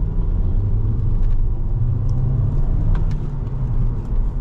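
2017 Volkswagen Jetta SE's 1.4-litre turbo four-cylinder pulling hard under full acceleration in second gear, heard from inside the cabin as a steady, loud low rumble.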